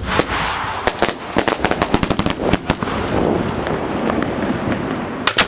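Fireworks display heard from close by on the firing barge: a dense run of sharp bangs and crackling, a hissing stretch, and two loud bangs near the end.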